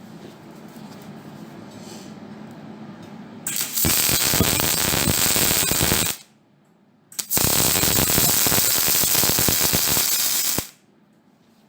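MIG welding: two bursts of steady rapid crackle, each about three seconds long, with a short pause between them.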